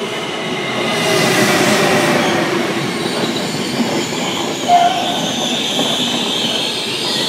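Electric locomotive-hauled passenger train running past along the platform. The rush of wheels on rail builds over the first second and then holds steady, with a high metallic wheel squeal over it. A short sharp tone stands out a little past the middle.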